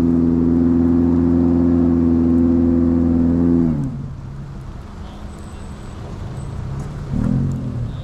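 SUV engine held at steady high revs as it climbs a slippery clay slope, then backed off sharply about four seconds in to a low, rough running sound; a brief low swell of revs comes near the end.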